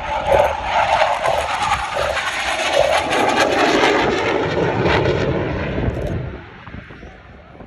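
Aircraft passing low over the airshow crowd line: a loud rushing roar that drops in pitch as it goes by, then fades away about six seconds in.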